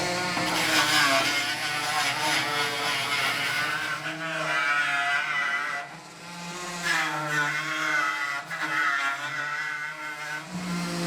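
Power sander running against the sheet-metal case of a tool chest. Its pitch wavers up and down as the load changes, and the sound dips briefly about six seconds in.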